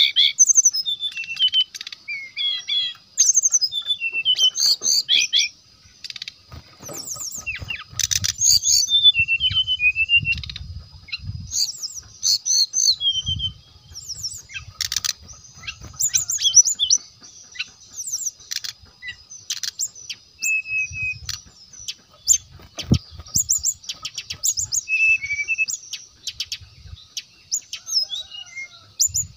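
Brown-chested jungle flycatcher singing: quick runs of short, high chirping and whistled notes broken by brief pauses, over a faint steady high tone.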